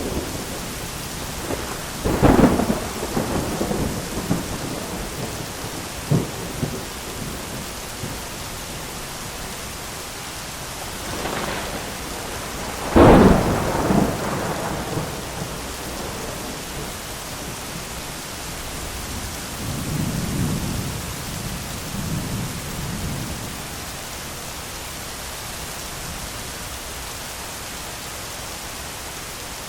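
Thunderstorm: steady heavy rain with thunder. Sharp thunder cracks about 2 seconds and 13 seconds in, the second the loudest, a smaller crack near 6 seconds, and a low rolling rumble around 20 seconds.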